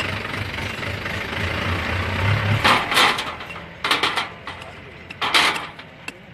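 A vehicle engine idling with a low hum. About two and a half seconds in, three short, harsh hissing or scraping noises cut in.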